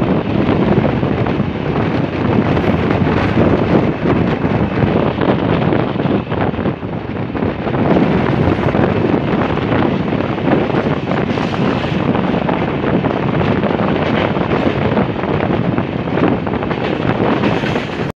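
A moving express train with LHB coaches, heard from an open door: the steady rumble and clatter of wheels on the track, with wind buffeting the microphone.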